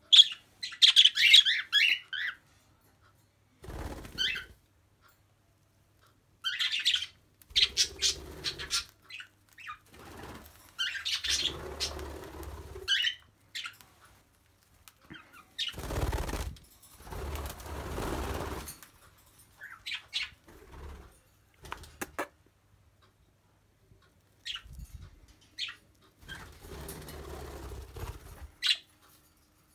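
Pet budgies and cockatiels chirping in short high bursts, loudest in the first couple of seconds, with several bursts of wing flapping and rustling in between and quiet gaps.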